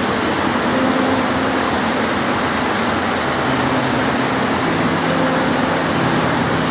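Steady heavy rain, an even hiss, with a faint low hum of steady tones underneath that shift in pitch a few times.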